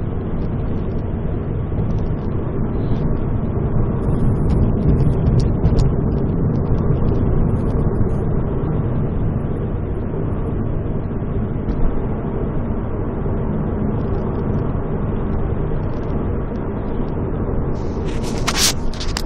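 Exhaust and engine drone of a Ford ST with its exhaust resonator removed, heard from inside the cabin: a steady low drone mixed with road noise that swells slightly a few seconds in. A few sharp scraping clicks come near the end.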